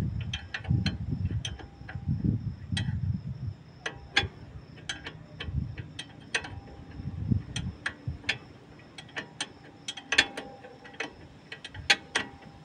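Irregular metallic clicks and clinks of hand tools on brake parts during a disc brake pad change, with some low knocks in the first few seconds.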